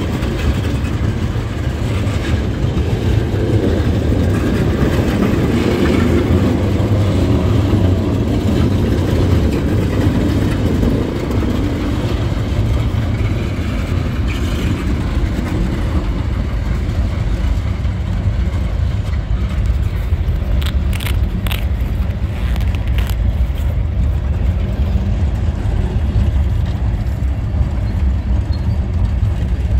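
Freight train cars rolling past close by: a steady heavy rumble of steel wheels on the rails as tank cars and then boxcars go by, with a short run of sharp clicks a little past two-thirds of the way through.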